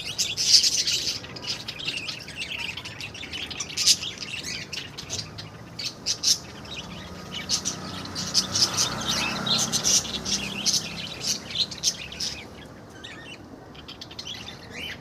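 Many small birds chirping and calling together, short high chirps overlapping densely, thinning out near the end.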